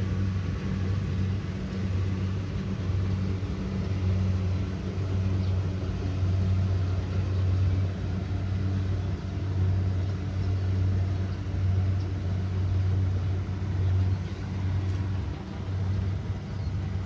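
Kubota DC70 Pro combine harvester's diesel engine running steadily with a deep, even hum, its loudness swelling and dipping slightly every second or two.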